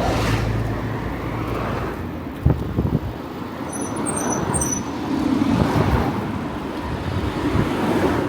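Road traffic noise: motor vehicles passing, swelling near the start and again in the second half, heard with a few knocks about two and a half seconds in.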